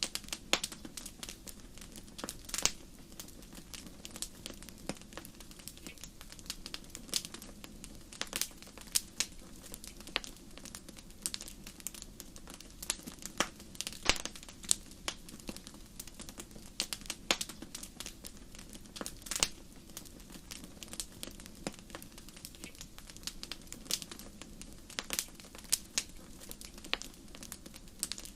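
Wood fire burning in a fireplace: irregular sharp crackles and pops, a few a second, some louder snaps, over a steady low rush of the flames.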